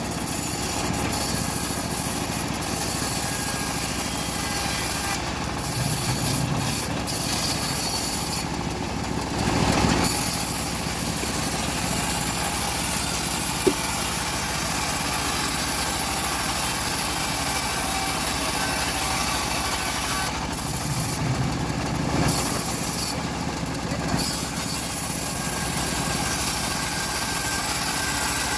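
Locally assembled bandsaw mill sawing through an old teak log, the blade making a steady cutting noise over the machine's running drive. The high part of the cutting noise eases off briefly twice, about a third of the way in and again past the middle.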